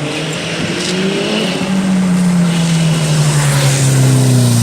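A sports car engine running loud. Its pitch rises about a second in, then falls slowly over the next few seconds as the car eases off or passes.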